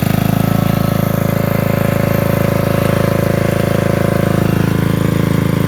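Portable generator's engine running steadily at a constant speed, with an even, rapid firing pulse.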